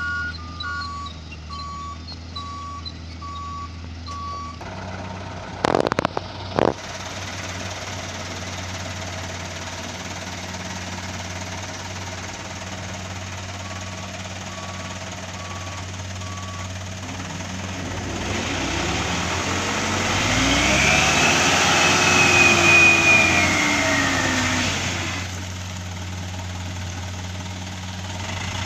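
Dump truck's diesel engine running steadily while its reversing beeper sounds, with two sharp knocks about six seconds in. Later the engine revs up and back down under a rising rushing noise, loudest about three-quarters of the way through, as the truck tips its load of soil.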